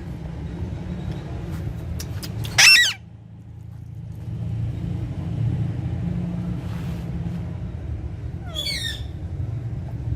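Parrot screeching: one loud, short harsh call about three seconds in, then a fainter warbling call near the end, over a steady low rumble.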